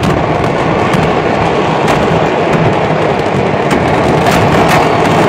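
A large stockpile of fireworks exploding all at once: a dense, continuous crackling and banging with no let-up, with sharper single bangs about two seconds in and several more near the end.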